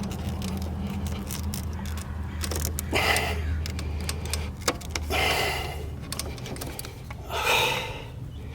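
Scattered light clicks and rattles of hands working the serpentine belt onto the engine's pulleys, with a few short breathy exhalations or mutters. A steady low hum runs underneath and stops about six seconds in.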